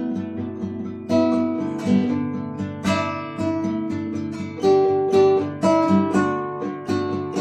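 Acoustic guitar played freely, strummed chords and plucked notes ringing and decaying into one another at an unhurried, uneven pace, as an improvised piece.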